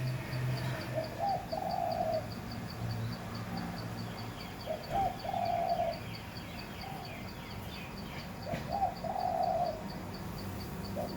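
A dove cooing: four short cooing phrases, each rising briefly and then held, repeated about every three to four seconds. It is a female calling to her mate from the nest.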